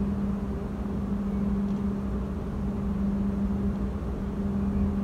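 Passenger train heard from inside the carriage as it pulls slowly out of a station: a steady hum over a low rumble.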